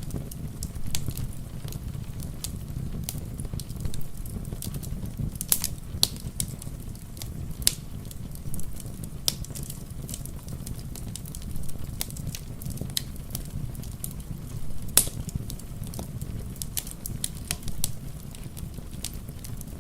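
Wood fire crackling, with irregular sharp pops over a steady low rumble; the loudest pop comes about fifteen seconds in.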